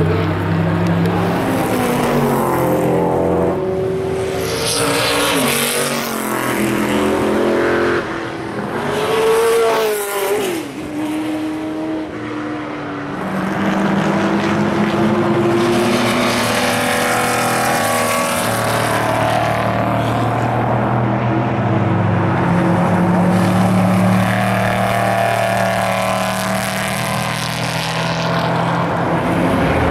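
Historic 1960s GT and sports-prototype race cars racing past at speed, engines run hard and revving through the gears, several cars in a row. About ten seconds in, one car passes close, its engine note rising and then dropping as it goes by.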